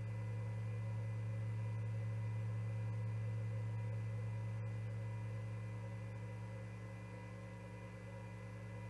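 Steady electrical hum: a strong, unchanging low drone with fainter steady tones above it.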